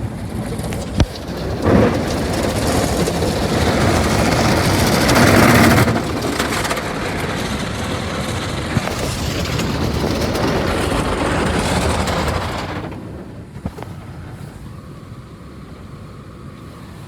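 Ryko Soft Gloss MAXX 5 soft-touch car wash scrubbing the car with its brushes and water, heard from inside the car: a loud rushing, swishing noise, loudest about five seconds in, that stops suddenly near the end, leaving a quieter steady hum. This is the brush cycle of the wash.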